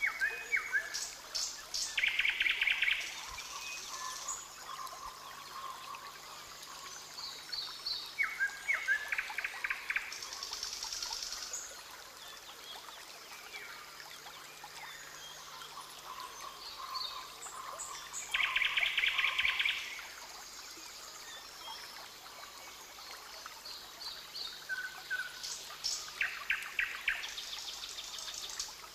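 Rainforest ambience: a bird gives a fast trilled call about a second long, four times at roughly eight-second intervals, with short high chirps from other birds in between, over a steady background hiss.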